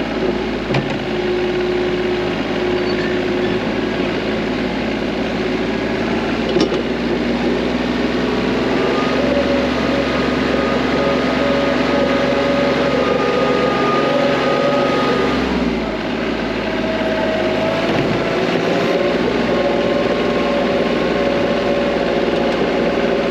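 TYM T25 compact tractor's diesel engine running under load, its pitch rising about eight seconds in, dropping near sixteen seconds and climbing again shortly after. A single sharp click a little past six seconds.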